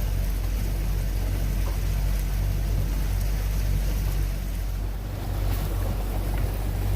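Motorboat engine running steadily underway, a low drone, with wind and rushing water noise over it.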